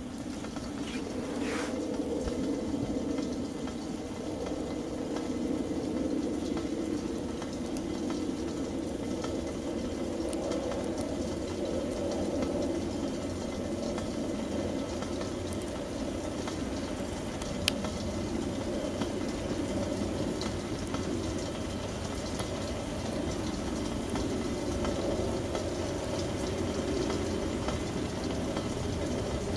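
Campfire burning: a steady low rushing noise with scattered crackles and pops, and one sharper pop a little past halfway.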